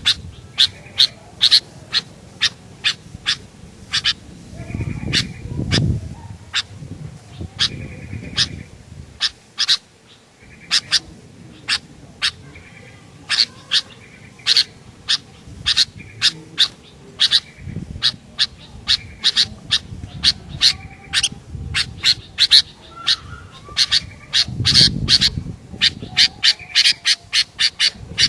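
Sooty-headed bulbul (kutilang) calling: quick runs of short, sharp, high notes with a brief lull about ten seconds in. A low rumble sounds under the calls twice, a few seconds in and near the end.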